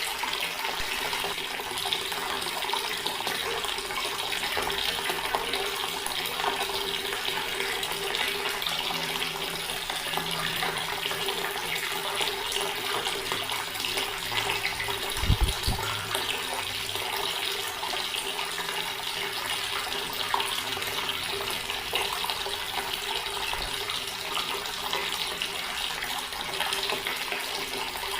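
Water running steadily from a tap and splashing into a stone basin, with a short low thump about halfway through.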